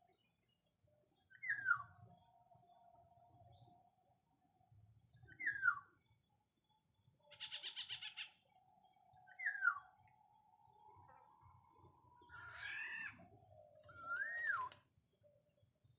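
Black-naped oriole calls: a short falling whistled note repeated about every four seconds, a harsh rasping call in the middle, and two more calls near the end.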